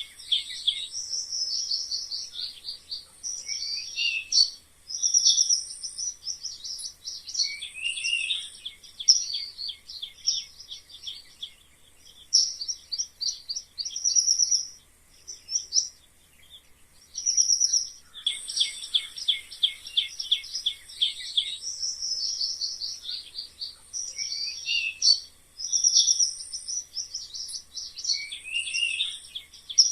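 Rapid, high-pitched squeaking and chirping trills that come in bursts of a second or two, with a few short falling chirps among them.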